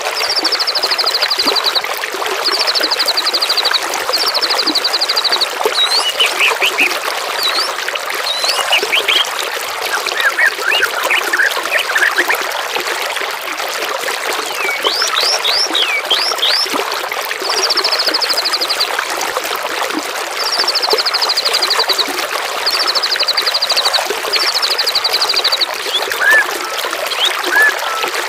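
Songbirds singing over steadily running water. A fast, buzzy high trill about a second and a half long repeats about ten times, between short whistled upsweeps and slurs.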